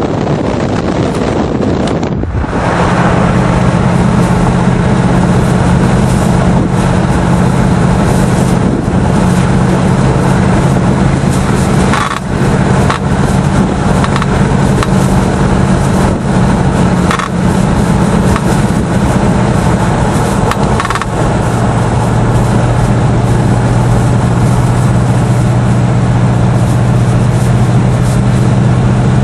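1972 Buick Riviera's 455 cubic-inch V8 with factory dual exhausts droning steadily as the car cruises, heard from inside the car. The first two seconds are mostly wind rush before the sound changes abruptly; the engine note dips briefly a few times and settles lower about two-thirds of the way through.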